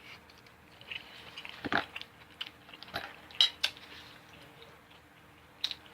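A person chewing and biting food close to the microphone, with irregular wet mouth clicks and smacks, the loudest about two and three and a half seconds in.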